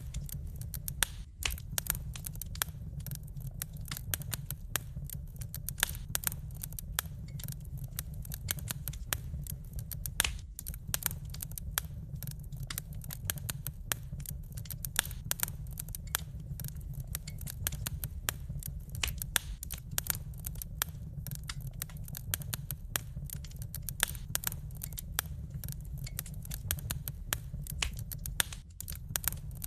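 Wood fire crackling in a fireplace: dense, sharp crackles and pops, several a second, over a low steady rumble.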